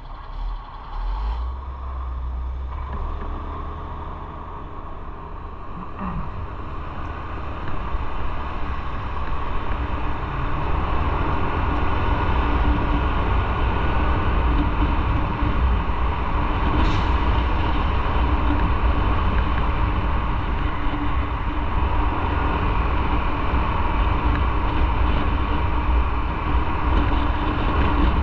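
Motorcycle riding along a road: engine rumble and wind noise getting louder over the first ten seconds as it gathers speed, then steady.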